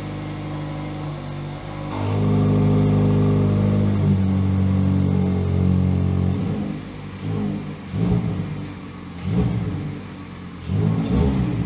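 Mazda MX-5 ND four-cylinder engine idling through an exhaust fitted with a Guerrilla Bypass cutout valve. It gets much louder about two seconds in and runs steadily, then from about six seconds it is revved in a series of short throttle blips.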